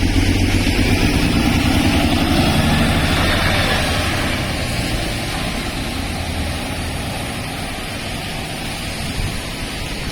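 Mitsubishi Fuso Aerostar city bus's diesel engine running loud close by, then fading over the next few seconds into steady traffic and tyre noise as the bus draws away.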